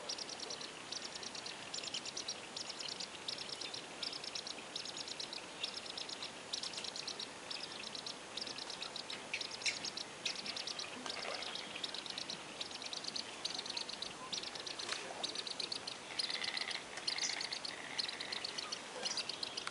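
Birds chirping in short, evenly repeated bursts of rapid high notes, a little more than one burst a second. Near the end a lower, held note sounds three or four times.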